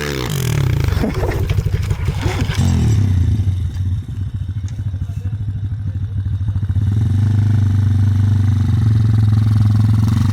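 Enduro motorcycle engine revving hard and unevenly for the first few seconds, then running steadily at lower revs, picking up slightly about seven seconds in.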